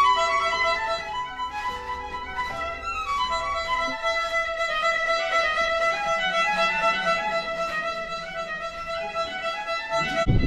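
Violin music: a melody of held notes moving from one pitch to the next.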